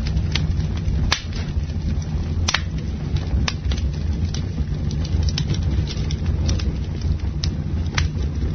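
Campfire burning: a steady low rumble of flames with sharp crackles and pops about once a second.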